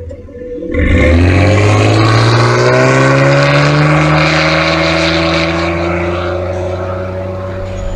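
A 2009 Nissan Murano's 3.5-litre V6 exhaust with the catalytic converters and a resonator deleted. Under a jump in throttle about a second in, the engine note climbs steadily in pitch for about four seconds, then holds and eases slightly near the end.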